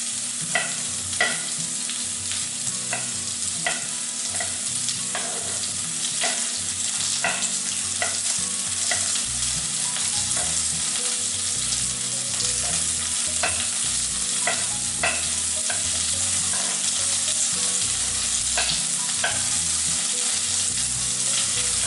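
Knife chopping tomatoes on a wooden cutting board, sharp irregular knocks about one to two a second, over the steady sizzle of onion, garlic and coriander seeds frying in oil in a kadai.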